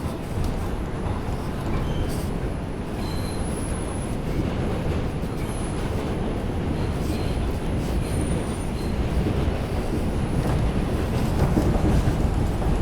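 R142 subway car running between stations, heard from inside: a steady rumble of wheels on rail, with a few brief, faint high wheel squeals. It grows a little louder near the end.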